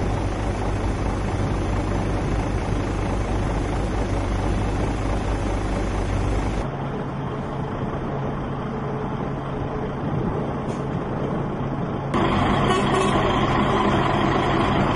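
Steady running of heavy machinery or an engine, a constant hum with noise over it; the sound changes abruptly about six and a half seconds in and again about twelve seconds in, getting louder at the second change.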